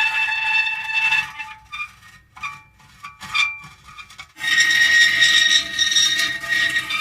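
Metal creaking: drawn-out, pitched squeals. A broken run of short creaks comes about a second in, then a louder sustained squeal starts at about four and a half seconds.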